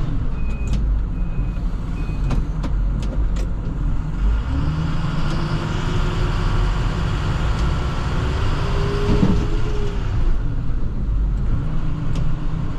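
International TerraStar plow truck's diesel engine running, with a backup alarm beeping about once every 0.7 s for the first two seconds as the truck reverses through a U-turn. From about four seconds in, the engine note rises as the truck pulls away, then settles again near ten seconds.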